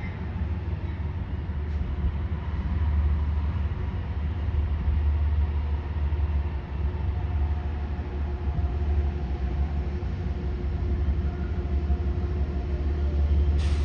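A train's steady low rumble with a faint steady hum above it, and a brief sharp click near the end.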